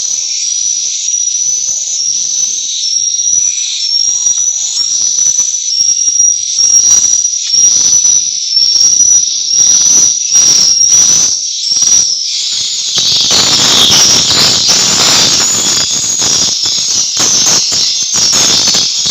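Swiftlet calls: a string of short, high twittering chirps about twice a second, with clicky notes between them. About two-thirds of the way through, a denser, rasping chorus of calls joins in.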